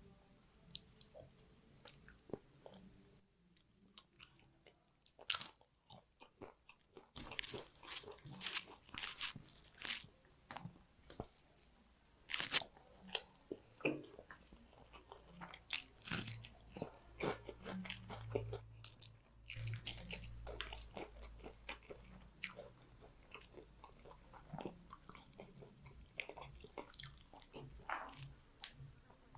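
Close-miked eating of a fish curry, rice and onion meal: irregular crunchy bites and chewing with wet mouth clicks, the loudest crunch about five seconds in.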